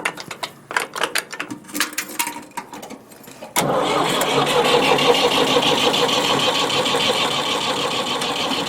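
A few clicks and knocks, then about three and a half seconds in the starter of a 1967 Ford 2000 tractor begins cranking the engine. The engine turns over steadily without catching, because the kill switch was left pulled out.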